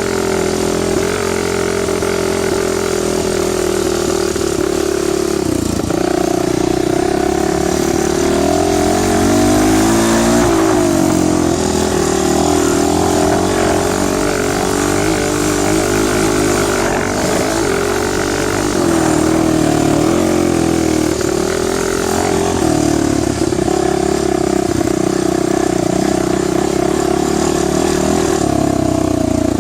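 Dirt bike engine running under way, its revs rising and falling repeatedly with the throttle.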